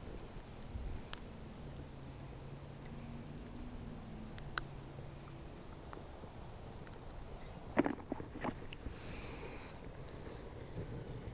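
Steady high-pitched insect chorus over outdoor riverside ambience, with a few sharp clicks and a short cluster of knocks about eight seconds in.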